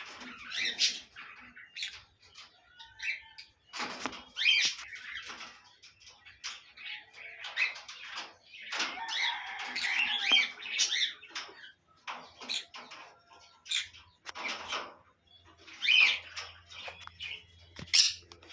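Pineapple conures, a colour mutation of the green-cheeked conure, calling in short irregular squawks and chirps. A denser run of chatter comes about nine seconds in.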